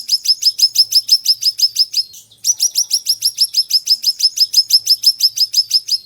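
Siri-siri songbird singing a fast, even trill of sharp, high, downward-slurred notes, about nine a second, with a short pause about two seconds in before it starts again.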